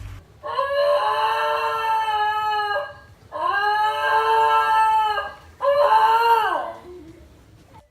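A dog howling: three long held howls, the last one shorter.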